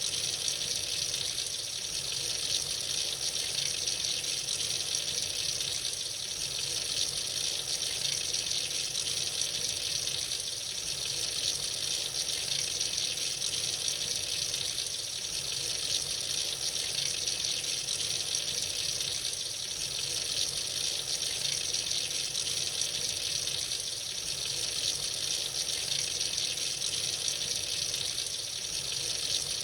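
Water running steadily from an open tap into a sink, a constant hiss-like rush with no change.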